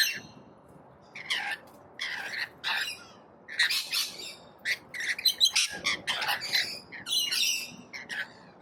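A flock of parrots squawking and screeching in short, harsh, overlapping calls. The calls start about a second in and come in quick clusters.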